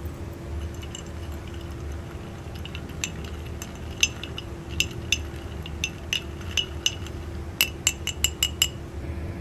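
Dishes or utensils clinking: scattered light clinks with the same short ring, then a quick run of about six near the end, over a steady low hum.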